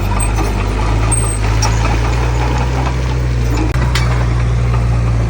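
Heavy diesel engine of earthmoving machinery running steadily at a constant speed, with a single brief knock a little under four seconds in.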